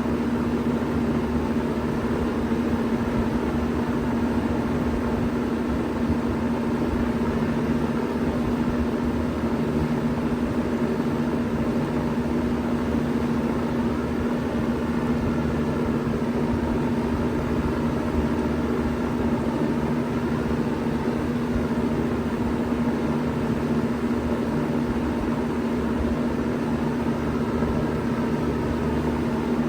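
1993 Bard 2.5-ton wall-hung heat pump running steadily in cooling mode: an even hum with one strong steady tone under a constant rush of fan air.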